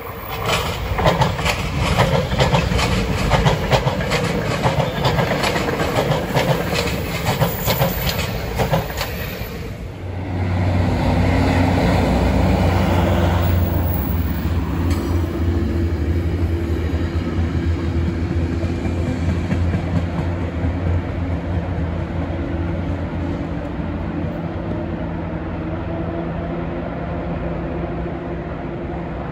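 Metro-North commuter train passing close by, its wheels clicking rapidly over the rail joints for about ten seconds. Then a louder, steady low drone with a clear pitch takes over and slowly fades as the train moves away.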